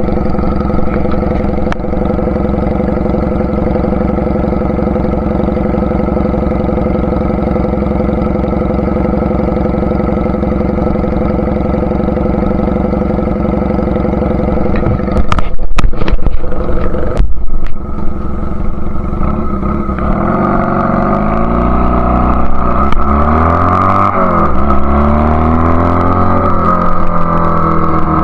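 1999 Honda Rebel CA125 motorcycle with an aftermarket BSM/Highway Hawk exhaust and a rejetted Keihin PD carburettor, running at a steady engine speed, then in the last third its revs rising and falling repeatedly as the throttle is worked. A couple of seconds of loud, rough noise cuts in about halfway through.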